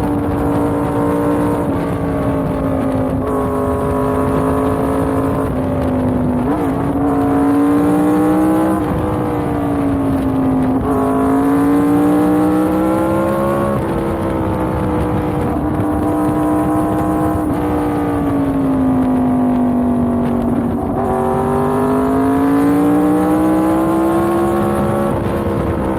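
Yamaha MT-10's crossplane inline-four engine running while the bike is ridden. Its pitch rises and falls slowly with the throttle, with a small step every few seconds.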